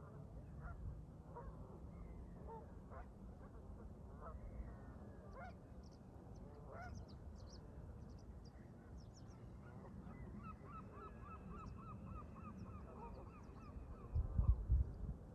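Canada geese honking repeatedly, with a rapid run of evenly spaced calls from another bird starting about ten seconds in and faint high chirps of small birds. A low wind rumble runs under it all, with a louder gust on the microphone near the end.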